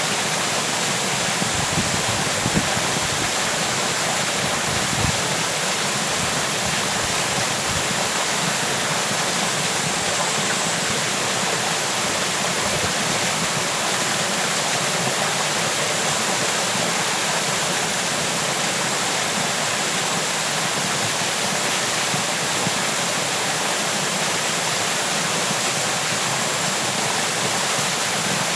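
Waterfall: a steady, even rush of falling water, with a few soft low thumps about two and five seconds in.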